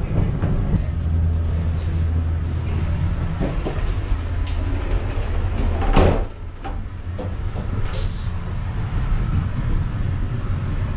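Steady low rumble of a passenger train running, heard from inside the carriage. About six seconds in there is one loud sudden sound as the washroom's powered sliding door closes, and after it the running noise is quieter; a brief high sound follows about two seconds later.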